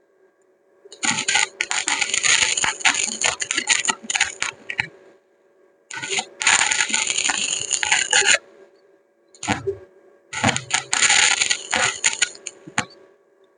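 Electric arc welding on steel: the arc crackles and spits in runs of a few seconds, about four times, with short pauses between welds.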